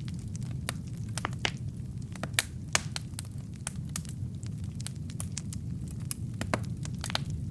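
Wood fire burning in a fireplace: a steady low rumble of flames with logs crackling and popping in irregular sharp snaps, a few louder pops among them.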